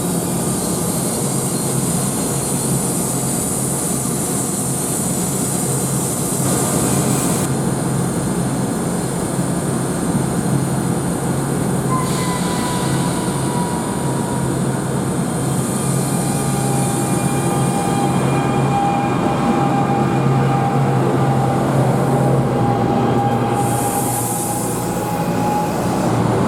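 NJ Transit train rolling through the station, its running noise loud and steady. Thin high wheel squeal comes in about halfway through and holds to the end.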